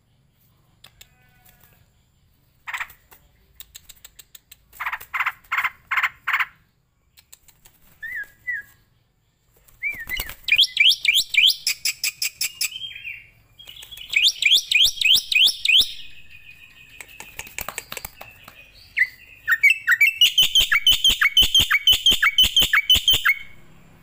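Starling-family bird (jalak) calling: a few single calls and a run of four notes early on. From about ten seconds in come long, rapid series of short chirps with sharp clicks between them, in three bursts.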